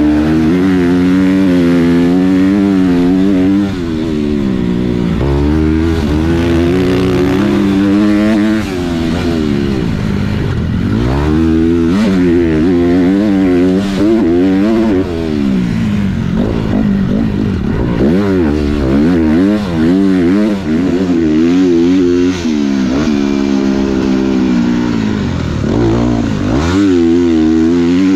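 Motocross dirt bike engine being ridden hard, its revs rising and falling again and again as the throttle is opened and closed.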